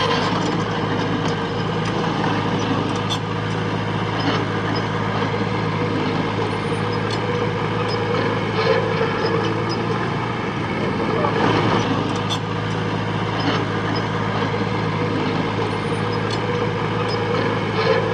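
Diesel engine of heavy earthmoving machinery running steadily, with scattered clicks and knocks over it.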